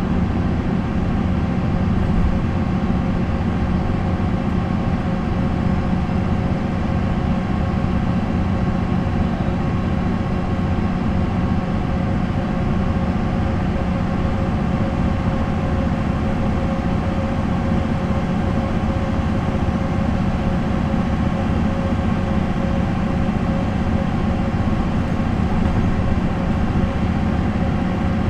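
MAN NL 263 city bus's D28 diesel engine with ZF Ecomat automatic gearbox, running under way with an even, unchanging drone.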